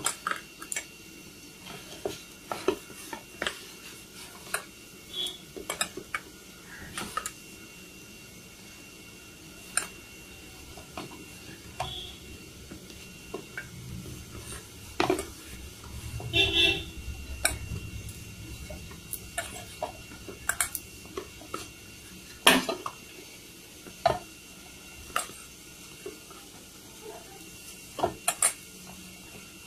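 Flour dough being kneaded by hand in a bowl: scattered, irregular clicks and knocks of the bowl and hands, with a sharper knock about three quarters of the way through.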